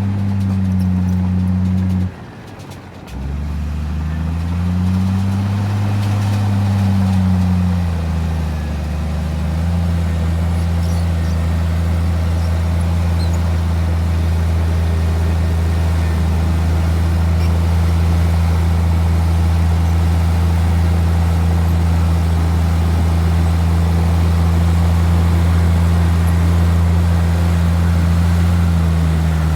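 Heavy diesel engine of earthmoving machinery running. It drops away briefly about two seconds in, rises and falls in pitch for a few seconds, then runs steadily.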